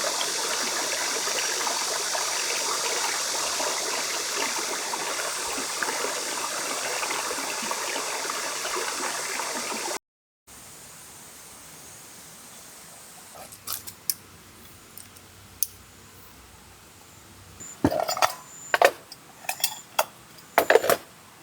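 A valley stream rushes steadily for about ten seconds. The sound then cuts to a much quieter scene with scattered sharp clicks and knocks, a cluster of them near the end, and a faint high insect-like trill.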